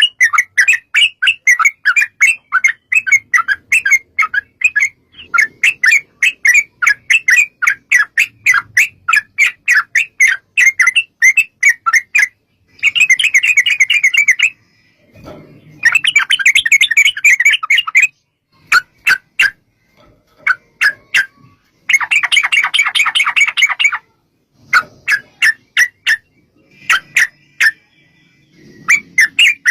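Yellow-vented bulbul (trucukan) singing a long run of rapid, chattering notes, about five a second. This breaks into three dense, fast trills of about two seconds each, with short pauses and scattered single notes between them.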